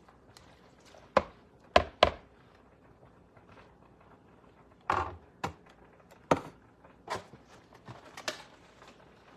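Kitchen work on a counter: a series of sharp knocks and taps, about eight in all and irregularly spaced, the loudest three in quick succession early on, as utensils and containers are handled and set down.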